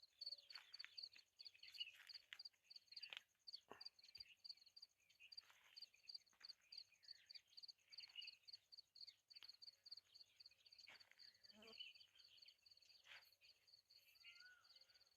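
Near silence with a faint insect chirping outdoors: a high, evenly pulsed chirp repeating a few times a second, with scattered faint ticks.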